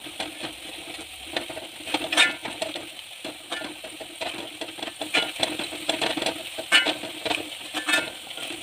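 Shallots, garlic, ginger, green chillies and curry leaves frying in coconut oil in a pan, sizzling steadily, while a spoon stirs and scrapes them in irregular strokes. The onion mixture is half browned.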